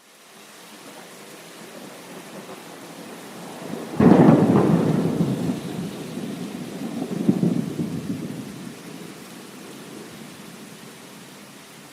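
Steady rain, with a sudden thunderclap about four seconds in that rolls on as a low rumble, swells again a few seconds later, then dies away under the rain.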